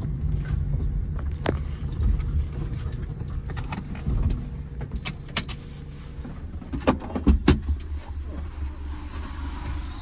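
Steady low rumble of a car heard from inside the cabin, with scattered sharp clicks and a quick cluster of knocks about seven seconds in.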